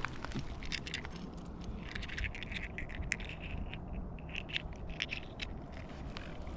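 Loose seashells scraping and clinking irregularly, a run of sharp little clicks and crunches over a low steady rumble.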